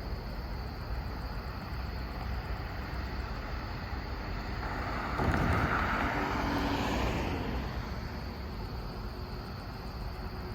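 A road vehicle passing by, its noise swelling a little under halfway through and fading away about three seconds later, over a steady low outdoor rumble.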